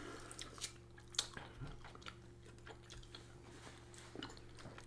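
Chewing food with scattered soft mouth clicks, the sharpest a little over a second in.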